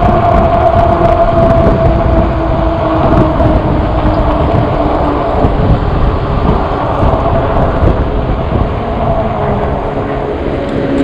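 Riding noise from an e-bike: wind buffeting the microphone and road rumble, with a steady humming tone that slowly drops in pitch.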